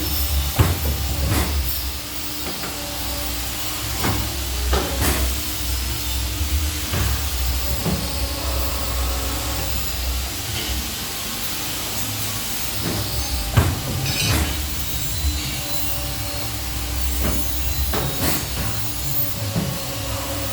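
CNC pipe-bending machine running: a steady motor hum over a low rumble, with irregular knocks and clicks from the machine's moving parts.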